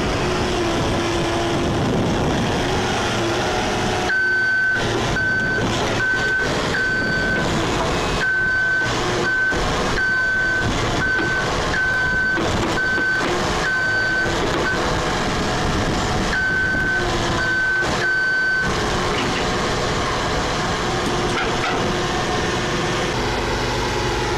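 Heavy vehicle's reversing alarm beeping repeatedly over its steadily running engine. The beeping starts a few seconds in, pauses briefly, and stops about three-quarters of the way through, leaving the engine running alone.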